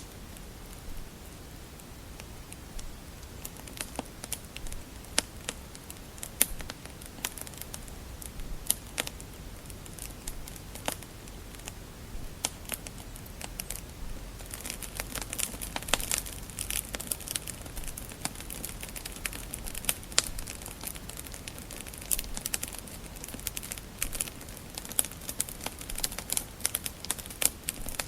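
Wood fire burning in a fireplace: irregular sharp pops and crackles of burning logs over a low steady hiss, the crackling growing busier about halfway through.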